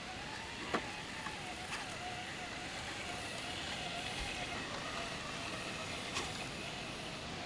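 Electric motor and drivetrain of an Element RC Enduro Knightrunner 1/10 scale trail truck whining at a wavering pitch as it crawls off-road, with a few sharp clicks.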